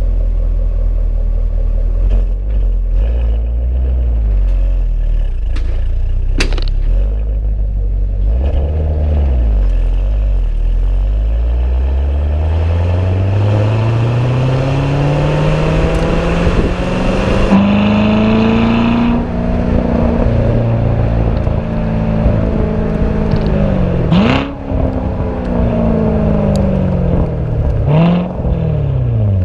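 2014 Corvette C7's 6.2-litre LT1 V8 through its stock exhaust, running at low revs, then accelerating with the engine note climbing steadily for several seconds and holding high. The revs drop sharply twice near the end.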